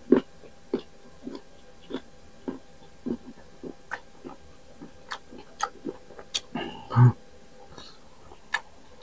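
Close-miked chewing of crunchy unripe green mango, a crisp crunch about twice a second, with one louder, brief mouth sound about seven seconds in.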